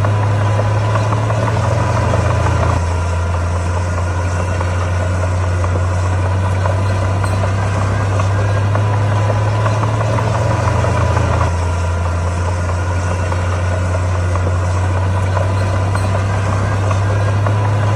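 Komatsu D41P bulldozer's diesel engine running steadily, with a deep even hum that shifts slightly in pitch about 3 seconds in and again near the middle.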